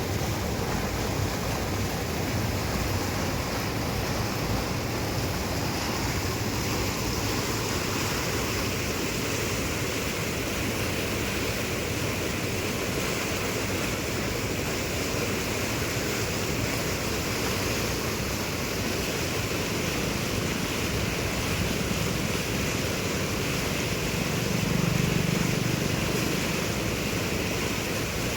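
Steady rushing of river water mixed with wind on the microphone. About 24 seconds in, a low hum swells briefly and fades.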